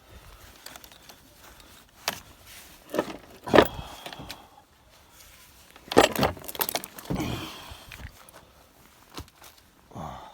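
Metal hand tools clinking and clattering in several short bursts, loudest about three and a half and six seconds in.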